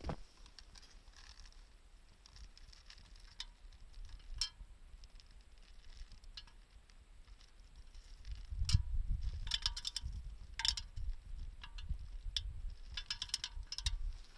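Wood fire crackling inside a homemade drink-can secondary-combustion stove: scattered sharp pops and clicks, some with a brief metallic ring. About halfway through, a low rumble comes in under the crackling.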